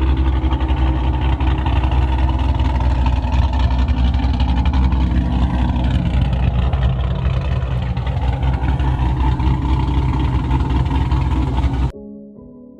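Cammed 6.4-litre HEMI V8 of a 2012 Chrysler 300 SRT8, breathing through long-tube headers and an OEM Hellcat cat-back exhaust, idling steadily with a deep, bass-heavy exhaust note. Near the end it cuts off suddenly and soft music starts.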